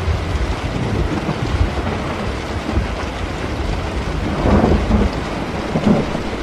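Steady rain with a continuous low rumble of thunder. Two louder crackling peals swell up about four and a half and six seconds in.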